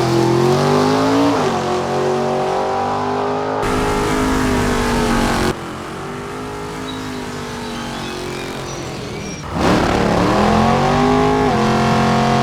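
A 1/5-scale RC short course truck's motor running and revving, its pitch rising and falling as it is driven. Several abrupt cuts between takes, with a quieter stretch in the middle.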